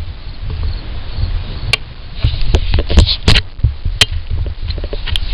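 Low rumble with scattered knocks and clicks.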